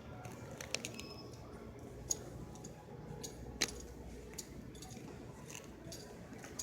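Indoor background noise with a steady low hum, broken by a few sharp clicks and clinks; the loudest comes about three and a half seconds in.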